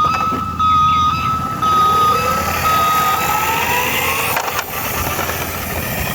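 Electronic sound effects from a battery-powered toy vehicle: a run of steady high beeps, with an engine-like tone rising steadily in pitch over a few seconds.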